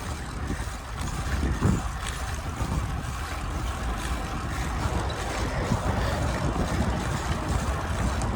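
Wind rushing over the microphone while riding a bicycle: a steady noise with a heavy low rumble, starting suddenly as the ride gets under way.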